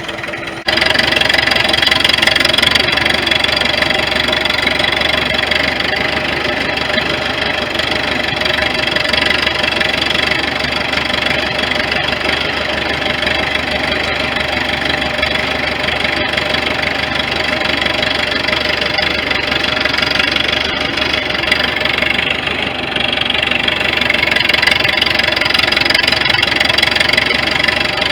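1973 International 3444 loader tractor's diesel engine running as the tractor is driven, a steady clattering drone. It jumps louder about half a second in, dips briefly later on and then rises again near the end.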